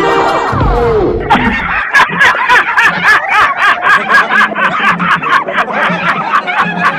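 A person laughing hard in a long, rapid run of short ha-ha pulses, about three to four a second, after a short falling-pitched vocal sound near the start.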